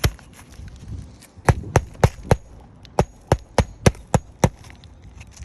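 Hammer driving roofing nails into a replacement asphalt shingle: a run of four sharp strikes about a quarter-second apart, then after a short pause a run of six.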